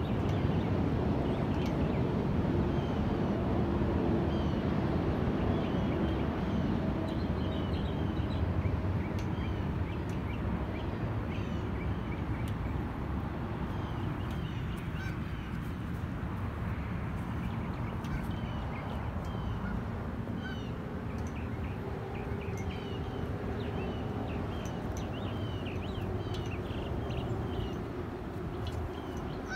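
Small birds chirping and singing in quick, repeated short notes over a steady low rumble.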